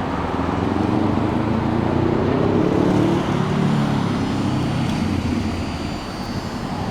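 A motor vehicle's engine running, swelling and then easing off over a few seconds against a steady background of traffic noise.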